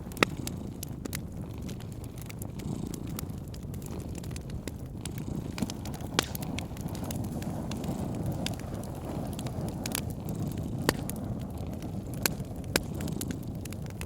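Wood fire crackling: irregular sharp pops over a low steady rumble, with a loud pop just after the start.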